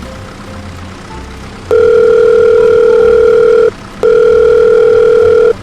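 Telephone calling tone: a loud steady electronic beep that sounds three times, about two seconds, then a second and a half, then a short one, while a call rings out on the line.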